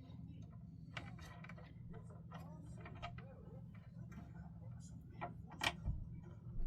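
Small scattered clicks and ticks of wires and DC connectors being handled, over a steady low hum, with one sharper click near the end.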